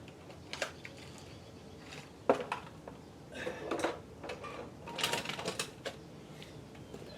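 Metal tools and parts being handled, clinking and clattering in short runs, with one sharp knock a little after two seconds in.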